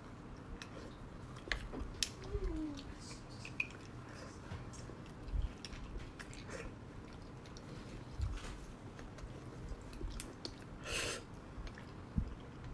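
Close-miked chewing and wet mouth sounds of eating beef bone marrow, with scattered small clicks. A short louder rush of noise comes near the end.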